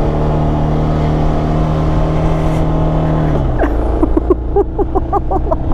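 Suzuki DR650's single-cylinder engine labouring up a steep hill carrying two riders. It holds a steady drone, drops in pitch about three and a half seconds in, then runs as an uneven, pulsing chug: the bike is struggling and not happy on the climb.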